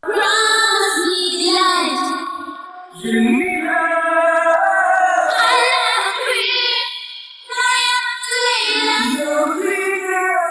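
A female voice singing a pop melody in long held phrases with vibrato, coming in suddenly after silence and pausing briefly about three and seven seconds in.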